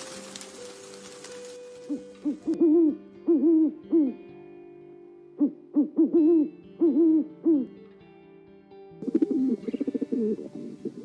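Pigeon cooing: a string of short, arched coos in two groups, then a fast rolling coo near the end.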